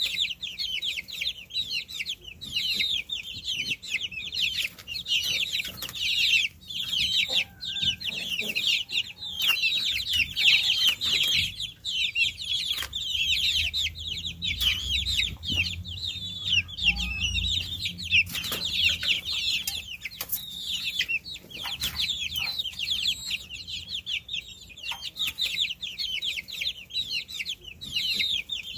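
A brood of baby chicks peeping nonstop, many short high chirps overlapping in a continuous chorus.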